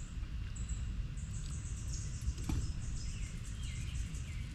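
Insects trilling steadily in a high buzz that breaks off briefly and starts again, with a few faint bird chirps and a low rumble underneath. A single light tap sounds about halfway through.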